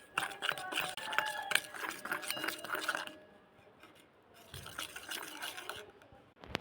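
A spoon stirring a thick mixture in a bowl, clinking repeatedly against the bowl's side with short ringing tones for about three seconds, then going quieter.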